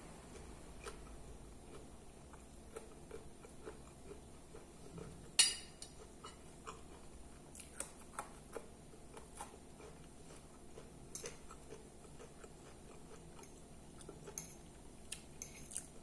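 Close-up chewing and soft mouth sounds of a person eating, with scattered faint clicks and one sharp click about five seconds in.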